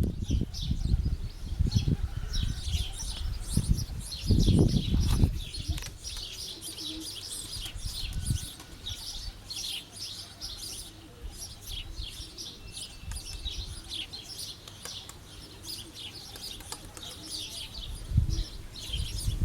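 Gusts of wind rumbling on the microphone for the first few seconds and again near the end, over continuous high-pitched bird chirping.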